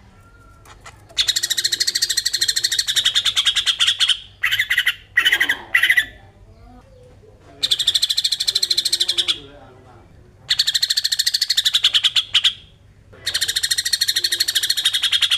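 Cucak ijo (green leafbird) giving its besetan: harsh, buzzing rattles made of very rapid pulses. There are four long rattles of about two seconds each and a few short ones between them, with brief pauses.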